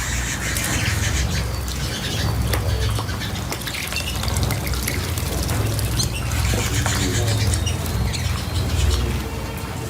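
Small cage birds chirping and squawking, with light water splashes from bathing, over a steady low rumble.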